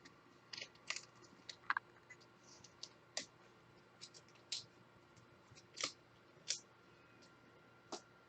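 Faint, irregular clicks and light scratches of football trading cards and their packaging being handled, about a dozen small sharp ticks with no steady rhythm.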